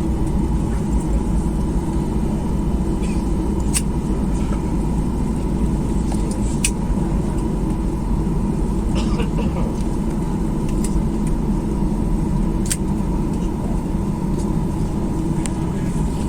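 Steady cabin noise inside a Boeing 737-800: the low rumble of its CFM56 engines and the airflow, with a thin steady hum and a few faint clicks.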